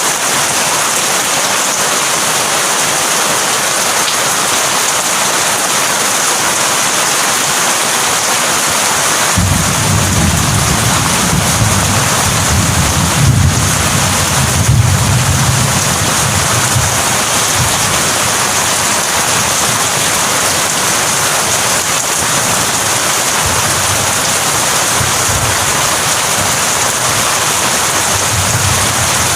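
Heavy rain falling steadily. Thunder rumbles in about a third of the way through, swells and dies away over several seconds, and a fainter rumble comes near the end.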